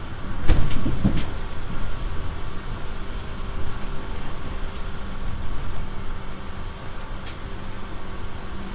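Inside a Seibu 301-series resistance-control electric train car: two heavy thuds about half a second and a second in, then the car's steady low rumble and hum.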